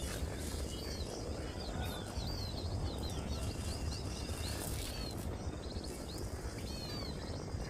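Small birds chirping: many short, high chirps, several a second, over a steady low rumble.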